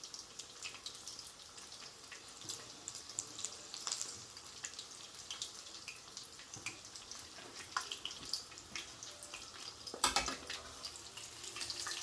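Breaded chicken fillet shallow-frying in oil in a frying pan: a steady crackling sizzle with many small pops, and a louder clatter about ten seconds in.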